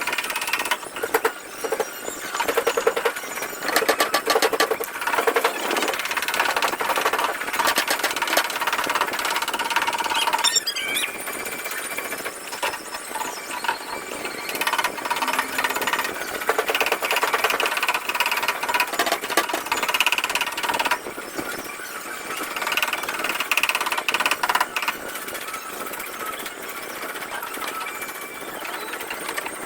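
Rapid light tapping on a car's sheet-metal body panel, as in paintless dent repair tapping down a dent. The taps come thick and fast in the first third, then give way to an uneven mix of higher whine and scraping.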